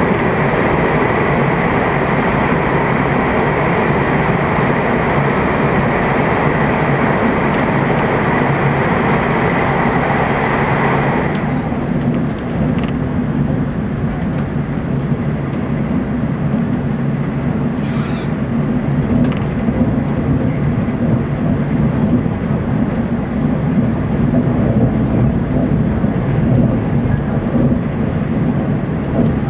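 Inside the passenger car of a TEMU2000 Puyuma electric express train running at speed: a steady rumble and rush of wheels on rail. About eleven seconds in, the hissing upper part of the noise drops away suddenly, leaving a duller, lower rumble.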